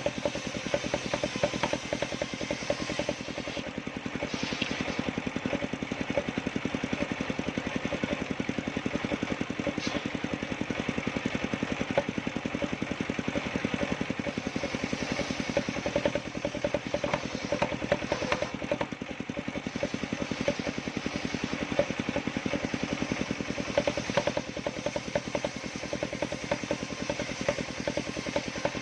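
Engine of a homemade circular sawmill rig running steadily at an even speed, with occasional light clatter.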